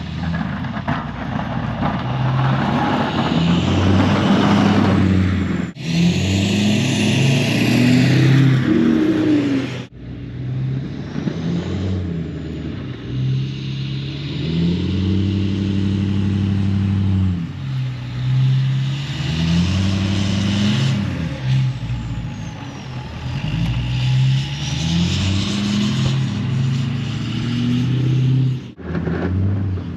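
Plow truck engine revving up and falling back again and again, its pitch rising and dropping in long swells as the truck works back and forth. The sound breaks off abruptly and resumes a few times.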